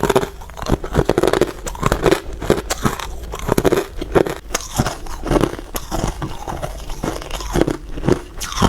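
Close-miked crunching of hard ice being bitten and chewed, a rapid run of sharp crunches, several a second.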